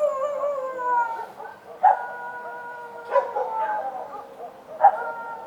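Street dogs barking and howling: three sharp barks about a second and a half apart, each running into a long, slowly falling howl, with more than one dog's howl overlapping.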